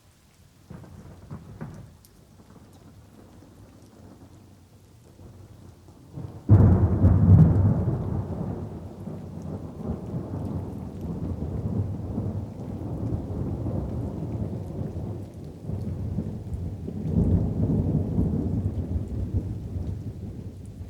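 Thunder over light rain: a faint rumble about a second in, then a sudden loud thunderclap about six and a half seconds in that rolls on and swells again near the end, with light rain pattering underneath.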